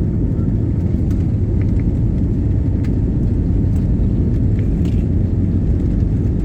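Steady low rumble of an airliner cabin during the takeoff flight, engine and airflow noise heard from inside the plane.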